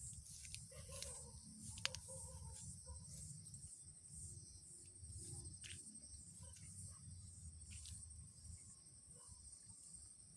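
Faint, steady high-pitched chirring of insects, with a low rumble of wind and a few faint ticks.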